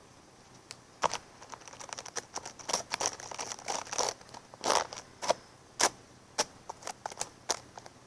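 Brush and comb strokes drawn close to the microphone: irregular scratchy swishes and crackles, about one or two a second.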